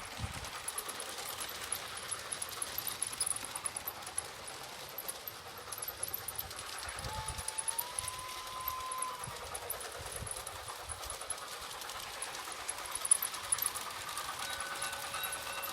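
Garden-scale model train running on outdoor track, its wheels giving a steady clatter of small clicks over the rails. About seven seconds in, a brief tone rises slightly in pitch and holds for a couple of seconds.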